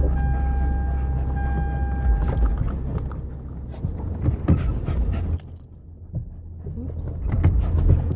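Small metal pieces jingling and clinking inside a car, over the low hum of the running car. A steady high tone sounds through the first two and a half seconds, and the hum drops away for a moment a little past halfway.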